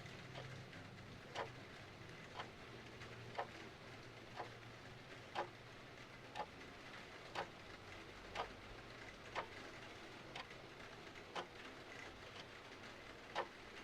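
Mechanical clock ticking steadily about once a second, the ticks alternating slightly stronger and weaker, over a soft steady hiss of rain.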